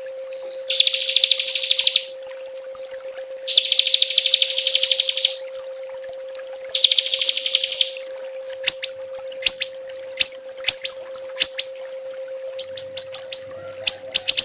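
Small songbirds singing rapid-fire 'tembakan' song: three long, fast buzzy trills, then from about halfway a string of sharp, high, downward-slurred chirps several a second. A faint steady hum runs underneath.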